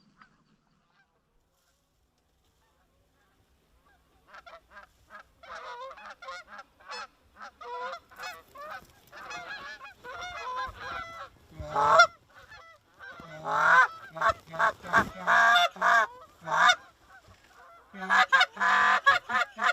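Near silence for about four seconds, then a fast run of short goose honks and clucks that builds and grows louder, the loudest calls coming in the middle and near the end.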